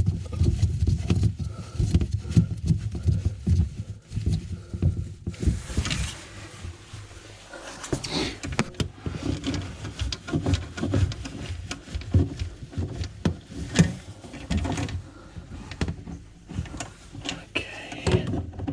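Irregular knocks, clicks and scrapes of pipework and fittings being handled and tightened during a drain repair, with a short scraping rush about six seconds in.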